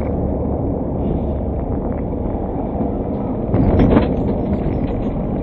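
Steady rumble of a moving vehicle, with a louder swell about three and a half seconds in.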